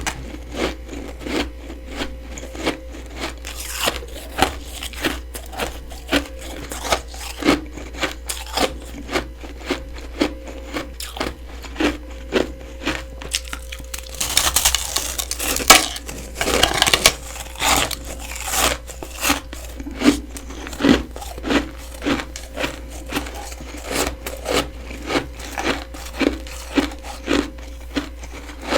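Freezer frost being chewed close to the microphone: crisp crunches in a steady rhythm of about one and a half chews a second. About halfway through comes a fresh bite with a louder run of dense crunching, and then the steady chewing picks up again.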